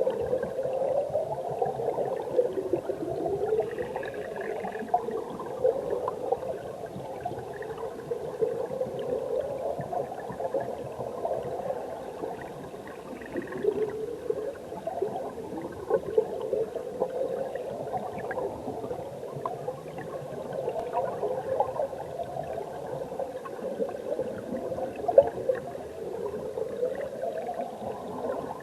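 Mountain stream current heard through an underwater camera: a steady, low bubbling rush with slow rising swells.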